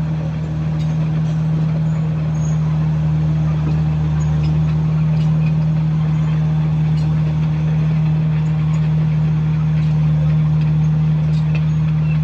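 Komatsu bulldozer's diesel engine running steadily at constant speed, with faint scattered ticks over the drone.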